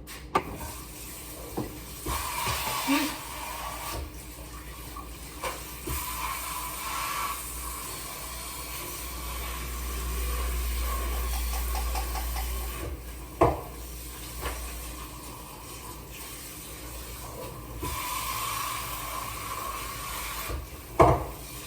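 Kitchen tap running into a mixing bowl as it is rinsed out, with a few knocks of the bowl against the sink.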